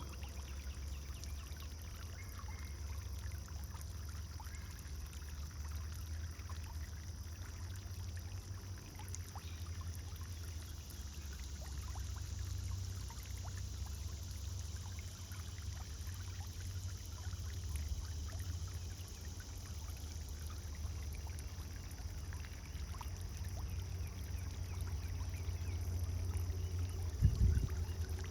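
Pond fountain water pouring and splashing steadily, with a low rumble underneath. A single brief low thump about a second before the end.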